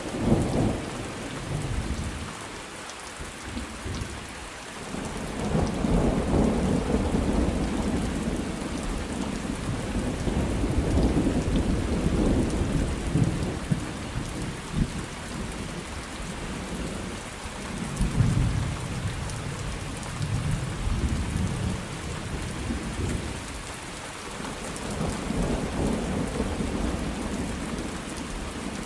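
Steady heavy rain with thunder rumbling, the rumbles swelling and fading several times.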